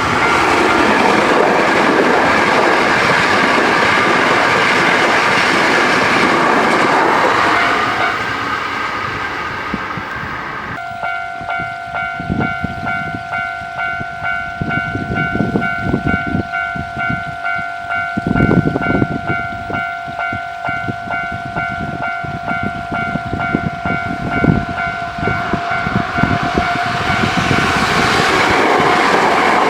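A Hankyu train passing over a level crossing for the first several seconds, with the crossing's warning bell sounding a steady pitched ring through the noise. From about a third of the way in, the bell stands out clearly over the irregular clack of wheels on rail joints. Near the end the train noise builds again.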